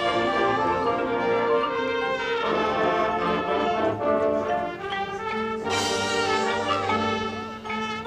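High school marching band playing, led by brass (trumpets, trombones, horns) in held chords that shift every second or so, swelling louder and brighter about six seconds in.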